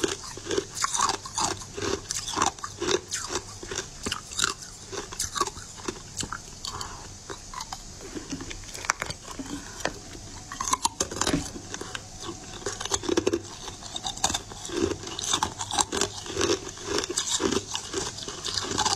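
Close-up biting and chewing of crunchy moulded sweets: sharp crunches over steady chewing at about two chews a second.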